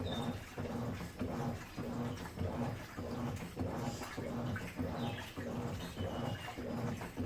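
Midea Wave-Agitator top-load washing machine agitating its load, the wave agitator churning water and clothes back and forth in an even rhythm of about two strokes a second.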